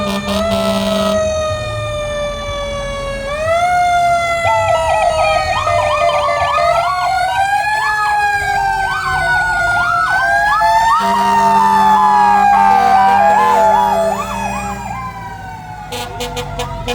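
Fire engine sirens sounding: a slow wail that glides up and down in pitch, with a faster warbling siren sweeping over it through most of the stretch.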